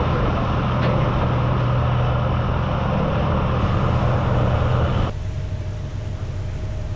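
Party fishing boat's engines running under way: a steady low drone with rushing wind and water noise. About five seconds in the sound drops suddenly to a quieter drone.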